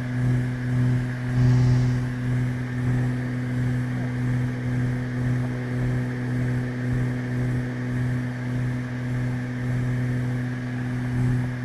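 Twin piston engines and propellers of a Beechcraft Baron G58 droning steadily in climb, heard inside the cabin, with a slow regular waver in loudness.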